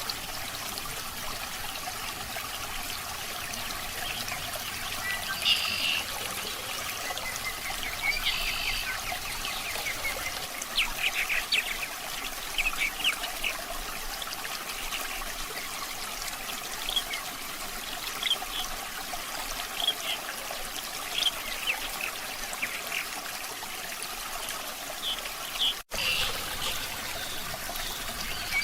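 Water trickling steadily, with scattered short high chirps over it; the sound drops out for an instant near the end.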